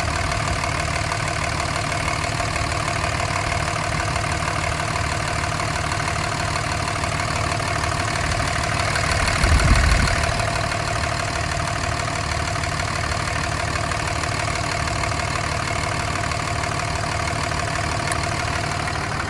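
Warmed-up 5.9L Cummins straight-six turbo diesel in a 2004 Dodge Ram 2500, idling steadily during a blow-by test. About halfway through there is a brief, louder low rumble.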